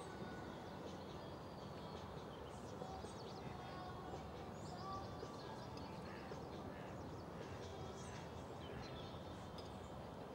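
Birds chirping repeatedly in short high calls over a steady low outdoor background noise.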